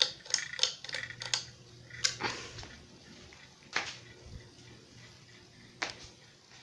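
42-inch Harbor Breeze ceiling fan running on high speed in reverse, with a steady motor hum. Irregular clicks and light rattles come from the fan, a cluster of them in the first second and a half and single ones now and then after.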